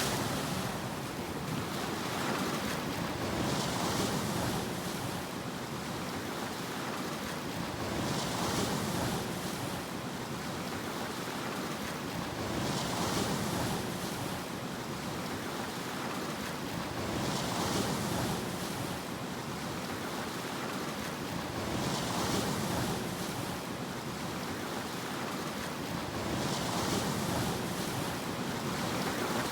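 Sea waves breaking and washing in, one wave about every four to five seconds, each swelling into a hiss of surf and then easing off.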